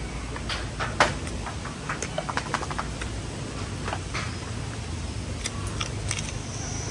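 Close-up chewing of crispy-skinned roast pork belly: a run of small crackling crunches, the loudest about a second in, then crisp bites into raw cucumber near the end. A steady low rumble runs underneath.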